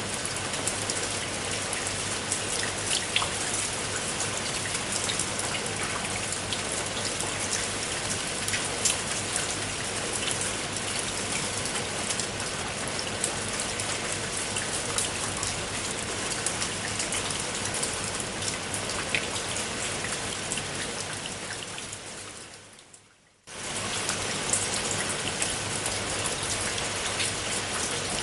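Steady rain falling on a clay-tile roof, a dense even hiss with individual drop taps. About 21 seconds in it fades away briefly, then cuts abruptly back in, like a loop seam in the recording.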